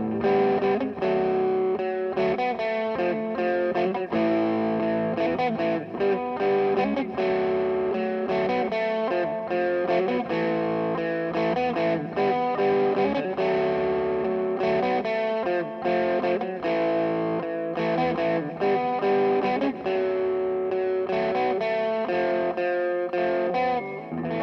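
Electric guitar played through a delay pedal, a run of quickly picked notes with the echoes blending into a full, sustained sound.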